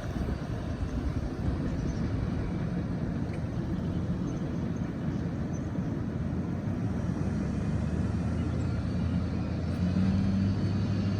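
A fast freight train rolling past: a steady rumble of steel wheels on rail from its cars. Near the end a low steady hum comes in.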